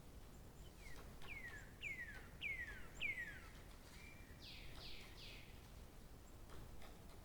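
A songbird singing: a run of five clear whistled notes, each sliding down in pitch, about half a second apart, followed by a brief level note and three buzzier notes, over faint outdoor background hiss.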